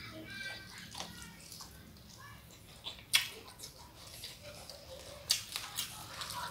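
Close-up wet chewing and mouth sounds of someone eating shrimp in sambal with her fingers, followed by sharp crisp crackles as fresh curly lettuce leaves are pulled apart by hand, one about three seconds in and a quick cluster a couple of seconds later.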